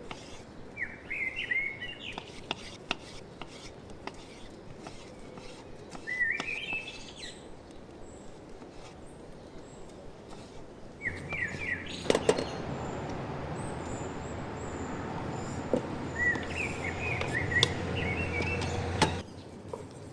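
Small birds chirping in short trills, four times. Scattered clicks and ticks run underneath. From about halfway a louder steady rushing noise comes in, and it cuts off suddenly near the end.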